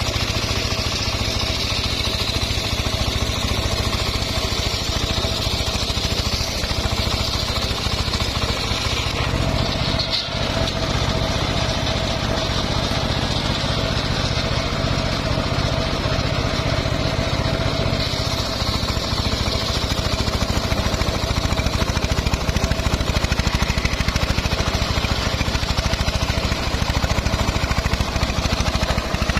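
Home-built circular sawmill running steadily under its drive engine, with a brief break in the sound about ten seconds in.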